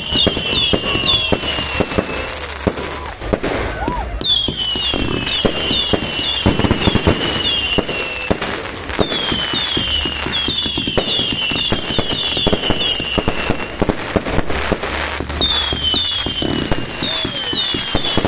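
Fireworks going off, with a dense run of pops and crackles throughout. Over them comes a repeating series of short, high, falling whistle-like chirps in runs of about four seconds, with brief gaps between the runs.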